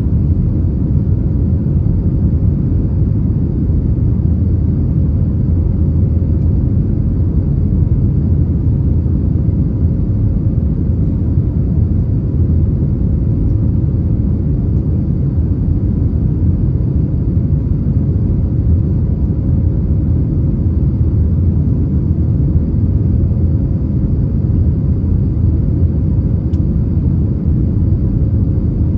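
Steady low rumble with a faint steady hum inside the passenger cabin of an Airbus A321neo, from its Pratt & Whitney PW1100G geared turbofan engines and airflow, heard from a window seat in the rear cabin as the airliner flies at steady power.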